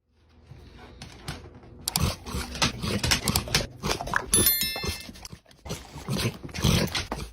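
An animal making noises, with irregular scuffling sounds, and a short bell-like ring about four and a half seconds in.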